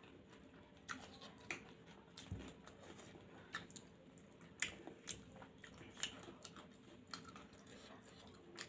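Close-miked eating sounds: soft chewing with wet mouth smacks and clicks at irregular intervals as homemade noodles are eaten by hand.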